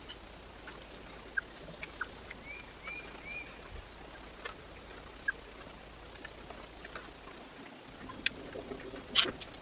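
A small bird chirps three times in quick succession, with scattered light taps and ticks that grow louder near the end, over the steady hiss of a trail camera's microphone.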